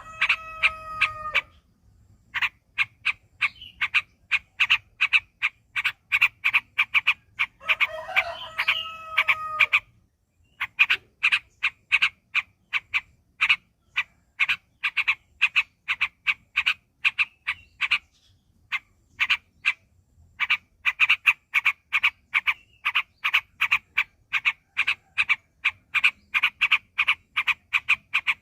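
Yellow-vented bulbul (trucuk) calling in a long rapid run of short sharp notes, about four a second, broken by brief pauses. A longer drawn-out call with a steady pitch overlaps it at the start and again about eight seconds in.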